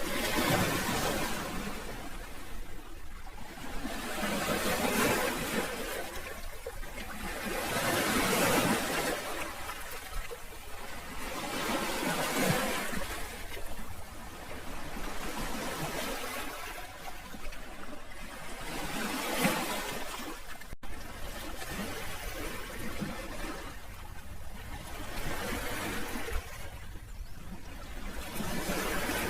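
Sea waves washing in on the shore, each surge of surf swelling and falling away every three to four seconds.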